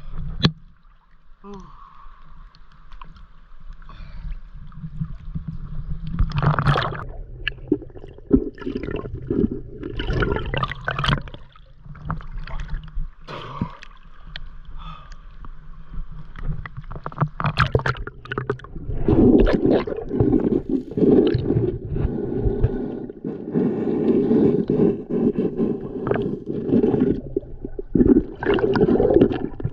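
Stream water splashing and gurgling close to the microphone, in an irregular run of sloshes and small splashes that grows busier and louder in the second half.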